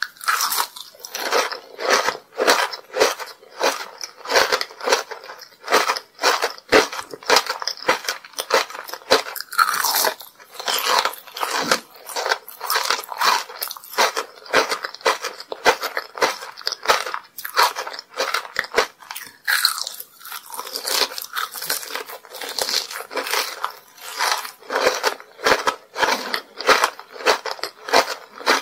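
Close-miked biting and chewing of homemade grape kohakutou, an agar jelly candy with a crisp sugar crust: the crust crunches and crackles while the chewy jelly is worked, in a steady run of repeated chews.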